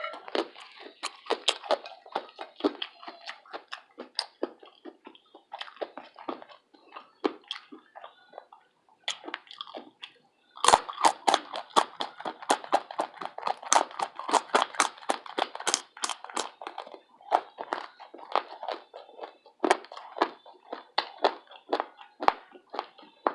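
Close-miked chewing with many crisp crunches and wet mouth clicks, irregular and continuous. There is a brief pause about ten seconds in, then faster, denser crunching.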